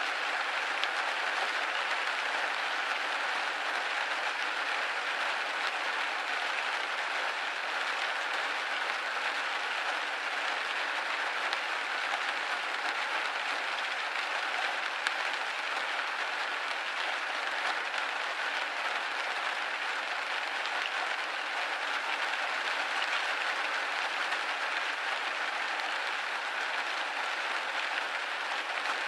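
Steady rain pattering on a window pane, a dense even hiss of drops with no thunder, and an occasional faint tick of a single drop.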